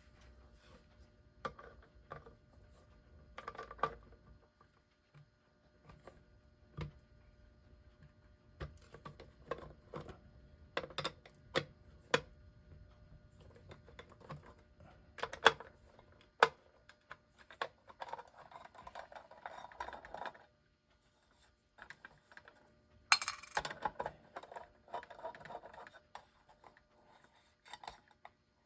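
Small hand tools clicking, tapping and scraping on the metal parts of an electric clock while tight nuts on it are worked loose. Irregular sharp clicks, with two spells of quick rattling clicks in the second half, the loudest click near the start of the second spell.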